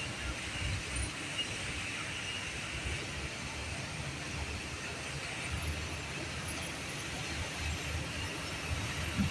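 Komatsu D85SS bulldozer's diesel engine running steadily under work, a continuous low rumble.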